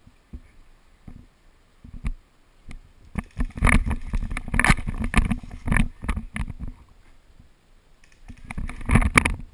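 Airsoft gun fire close to the microphone: a spell of rapid, clattering shots beginning about three seconds in, and a shorter burst near the end.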